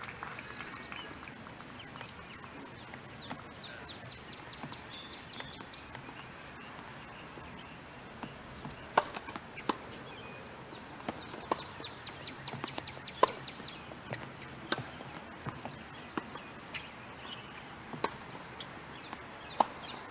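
A bird's rapid, dry trill, repeated about three times over a steady outdoor hiss. From about nine seconds in come a dozen irregular sharp knocks, the loudest sounds.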